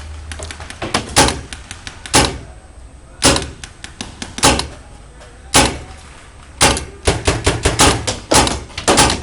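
Paintball markers firing: single shots about once a second, then a quick string of many shots in the last two seconds.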